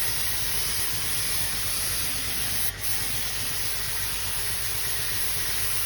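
Paint spray gun spraying in a steady, high hiss, broken once briefly a little before the middle.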